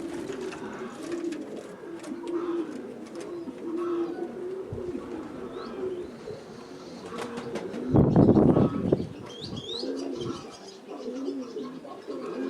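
Domestic pigeons cooing repeatedly, with a brief loud low rumble about eight seconds in and a few faint high chirps just after.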